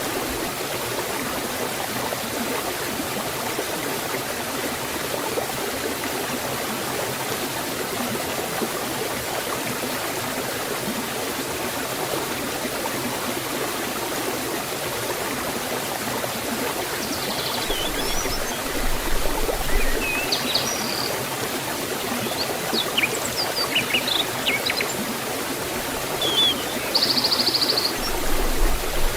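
Forest waterfall rushing steadily as an even wash of water noise. Birds chirp now and then from about two-thirds of the way in.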